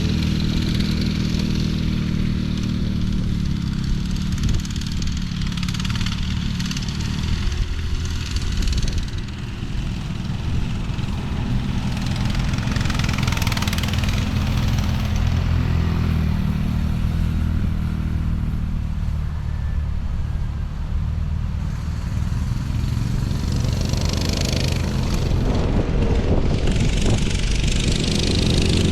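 Small off-road vehicle engine running steadily while riding, its pitch easing down slightly around ten seconds in and again about twenty seconds in.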